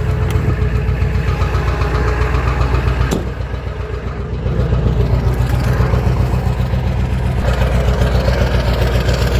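1999 Ford 7.3 L Power Stroke V8 turbodiesel idling cold after a start at 15 degrees without the block heater, with an even rapid beat. A click about three seconds in, after which it runs quieter for a second or so before returning to its steady idle.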